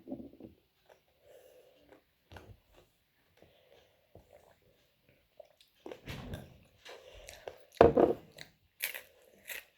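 Takis rolled tortilla chips being bitten and chewed, with crisp crunches. The crunches are sparse and quiet at first, then louder and closer together from about six seconds in, loudest around eight seconds.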